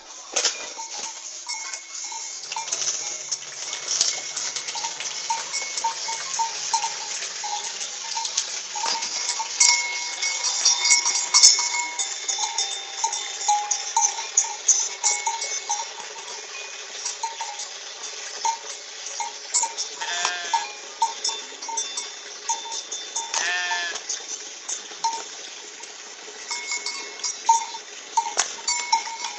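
A small bell clinking and jangling repeatedly amid scuffling livestock. Two short, wavering animal calls come through about twenty and twenty-three seconds in.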